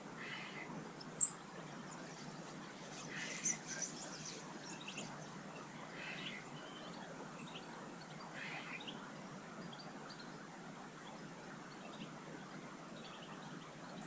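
Small garden birds chirping in short scattered bursts over a steady background hiss, with one brief, sharp high note about a second in that is the loudest sound.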